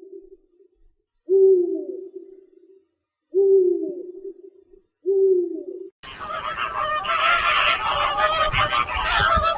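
Bird calls: three one-second calls with a steady low tone, about two seconds apart. From about six seconds in, a dense chorus of many overlapping calls starts.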